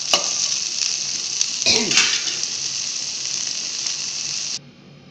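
Chopped okra frying in oil in a kadai, a steady sizzle as it crisps at the end of cooking, with a spatula scraping and tapping against the pan a few times. The sizzle cuts off abruptly near the end.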